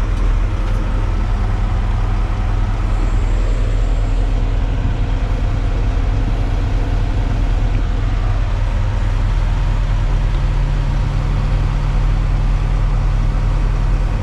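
Hitachi Zaxis 250 excavator's diesel engine running steadily, heard from inside the cab; about nine seconds in its note steps up to a higher steady pitch as the engine speeds up.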